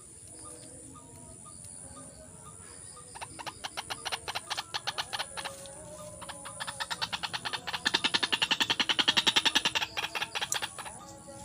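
White-breasted waterhen (ruak-ruak) calls: a rapid string of repeated notes, about five a second. They begin a few seconds in and grow louder toward the end.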